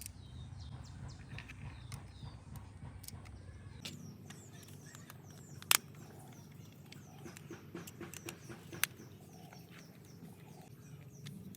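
Birds chirping faintly and repeatedly in the background, over a low hum. A few sharp clicks cut through it, the loudest about halfway through.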